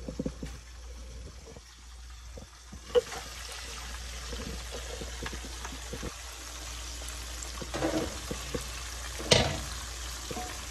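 Battered shrimp deep-frying in a pan of hot oil: a steady sizzle and bubbling that gets louder about three seconds in. A few sharp knocks of cookware sound over it, the loudest about nine seconds in.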